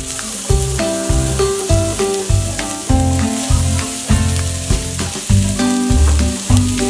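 Diced onion and chopped mushrooms sizzling as they are dropped into a hot frying pan and stirred, a steady crackling hiss that starts suddenly. Background music with a steady beat plays underneath.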